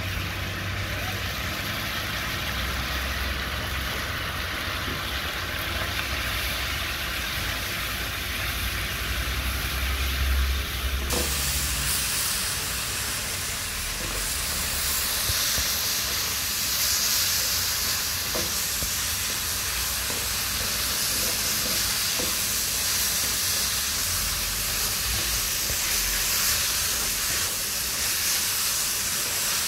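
Chicken and ginger stir-fry sizzling steadily in a nonstick wok, over a low hum at first. About eleven seconds in the hiss turns brighter and the hum stops, as a spatula starts tossing the meat and leaves, with a few light knocks of the spatula on the pan.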